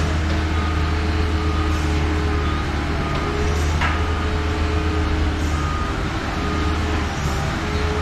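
A boatyard travel lift's engine running steadily while its warning alarm repeats a high beep roughly once a second as it moves, with a single knock about four seconds in.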